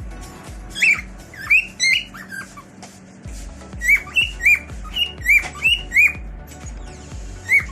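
Cockatiel calling: a run of short, shrill calls that rise and fall, about two a second, in two bunches with a short pause around the middle.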